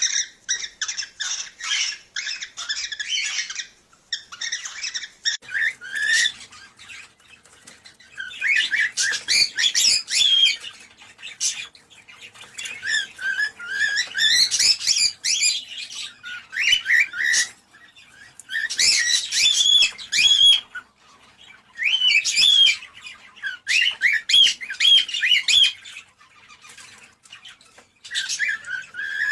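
Cockatiels calling: a fast, high chirping chatter for the first few seconds, then bursts of whistled, warbling chirps every few seconds with short pauses between.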